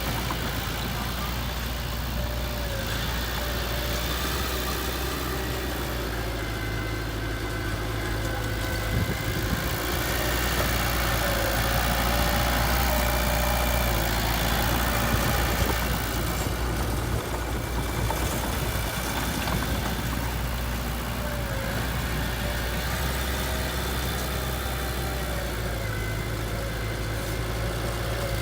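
Heavy diesel engine of earthmoving machinery running steadily at idle, a little louder for a few seconds in the middle.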